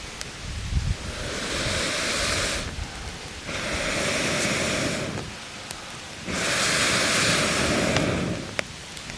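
Campfire being blown on in three long breaths, each a whooshing rush of air about two seconds long with short pauses between, over the steady crackle of the fire and a few sharp pops.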